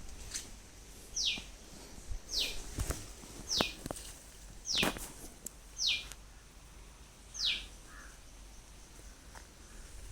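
A bird calling a short, steeply falling whistled note over and over, about six times at roughly one-second intervals, then stopping, with a few faint knocks between the calls.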